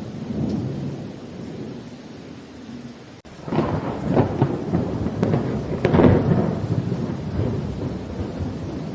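Thunderstorm with rain: thunder rumbles low, then about three seconds in a loud crackling peal with sharp cracks breaks out, peaks twice and settles back into a rumble.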